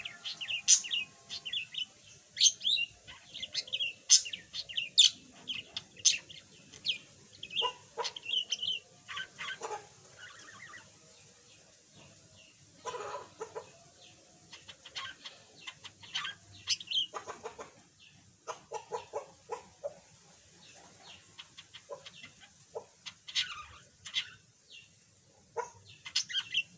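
Budgerigar chirping and chattering in quick, sharp high notes, in dense runs for the first third, then sparser bursts with short pauses. The bird is only beginning to chatter after having been mute.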